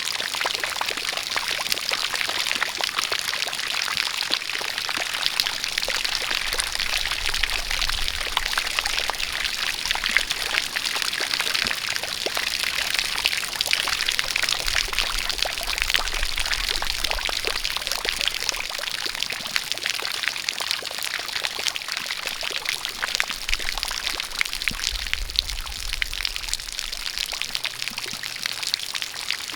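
Rain falling together with a steady stream of water pouring: an even hiss dotted with fine patter of drops.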